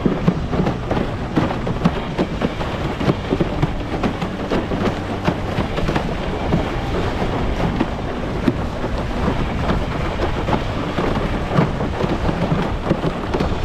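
Wind rushing over the microphone and water splashing and slapping against a hydroplane-hull windsurf board as it skims fast through small chop, with an uneven, constant rush of noise.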